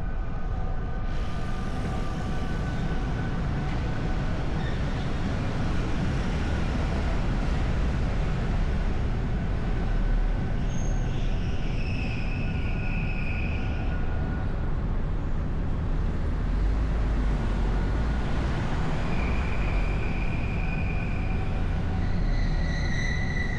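Wind buffeting the microphone over the road noise of a moving car: a steady low rumble, with faint whistling tones coming and going.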